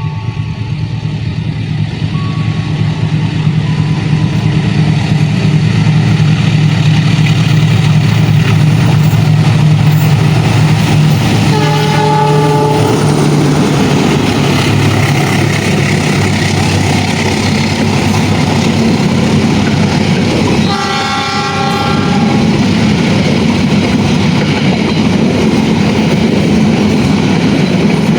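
A locomotive-hauled passenger train passing close by: the diesel-electric locomotive's low engine drone builds and grows loud, its horn sounds briefly about halfway through and again about three-quarters through, and the rumble and rattle of the carriages rolling past fills the second half.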